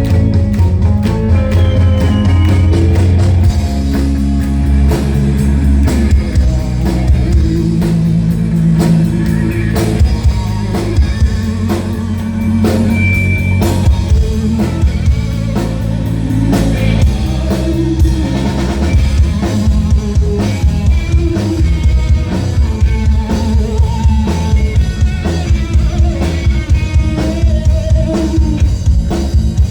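Rock band playing live, with a steady drum-kit beat under electric guitars.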